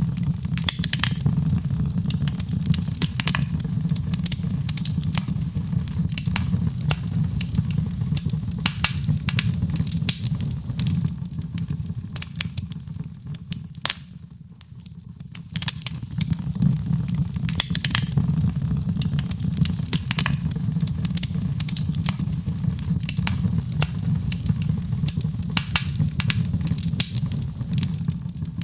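Wood fire in a fireplace crackling: many sharp, irregular pops and snaps over a steady low rumble of the flames. The crackling eases for a second or so about halfway through.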